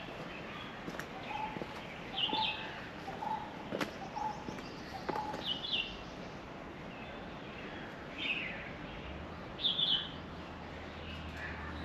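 Birds calling in the trees: short high chirpy calls every couple of seconds, with a lower piping call repeated in the first half, over a faint outdoor hiss.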